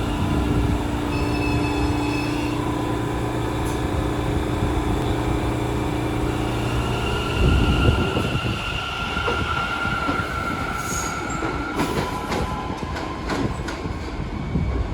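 New York City Subway train running on the track. For the first half a steady whine sits over the rumble; about halfway there is a heavy thump, then a rougher rumble with quick wheel clicks over the rail joints in the last few seconds.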